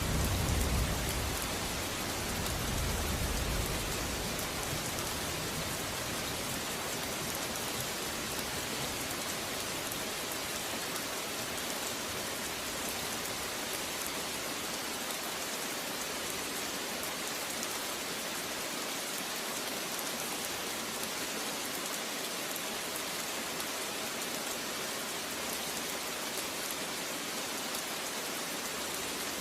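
Steady heavy rain hissing evenly, with the tail of a low thunder rumble dying away in the first few seconds.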